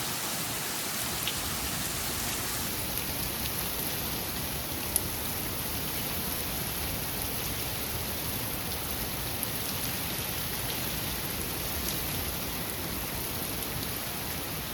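Heavy rain driven by strong thunderstorm wind gusts, a steady rushing downpour, with one sharp tap about five seconds in.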